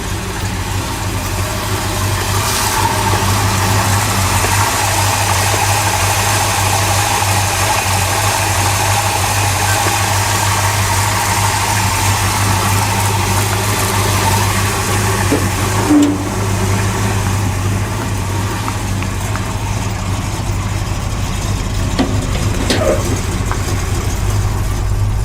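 1978 Ford Bronco's V8 idling steadily while warming up after a cold start, with a brief high chirp about sixteen seconds in.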